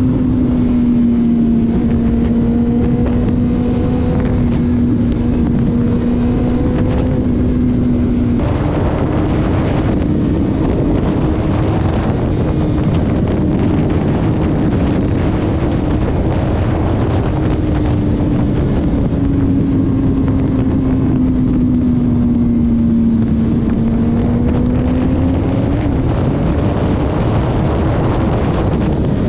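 Vehicle engine droning at highway speed under heavy wind and road noise. Its pitch steps up about a third of the way through, then sags and climbs again later.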